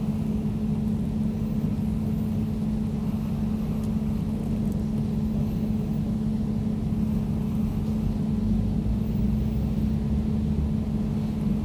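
Air conditioner running steadily: an even low hum with a low rumble beneath and a soft airflow hiss.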